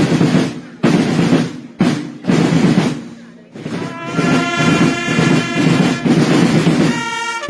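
Massed snare drums beating rolls, joined about halfway through by trumpets sounding a long, steady held note over the drumming.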